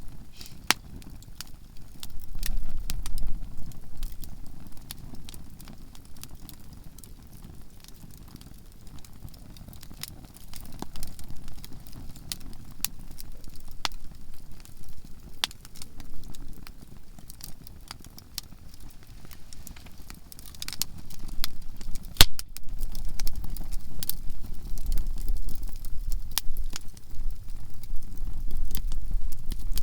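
Conifer (softwood) firewood burning in a campfire, crackling with frequent sharp, irregular pops. A low rumble swells underneath at times, strongest in the last third.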